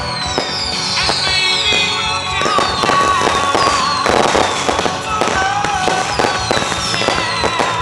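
Fireworks display: dense crackling and sharp bangs, with several whistles falling in pitch, over music.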